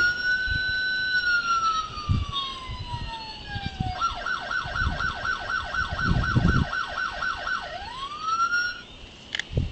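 Electronic police siren sound effect from a toy RC 2010 Chevrolet Camaro police car: a slow wail that rises, holds and falls, then about four seconds in switches to a fast yelp of about three or four sweeps a second, and ends on a rising wail that cuts off near the end.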